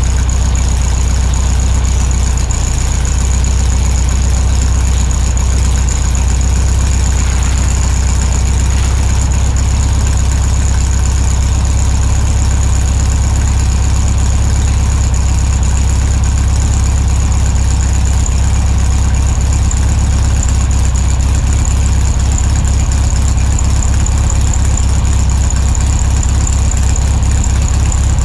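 2001 Honda CR-V's engine running while the car is driven, a steady low rumble with road noise.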